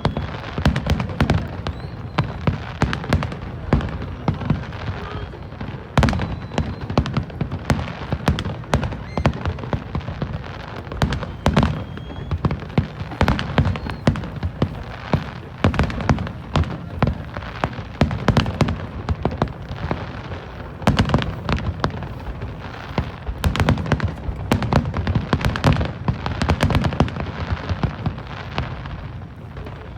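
Aerial fireworks bursting in rapid, irregular succession, a dense barrage of booms and crackles with rumbling echoes, and now and then a faint rising whistle of a shell going up.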